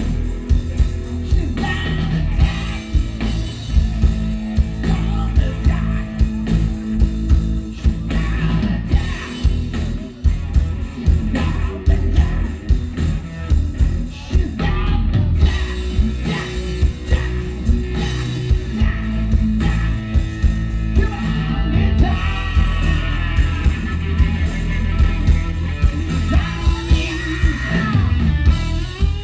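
Live rock band playing: drums keeping a steady beat under bass and electric guitar, with singing.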